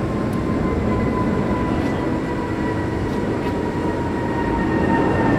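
Jet airliner engines running steadily: a rushing noise under a high whine that slowly falls in pitch.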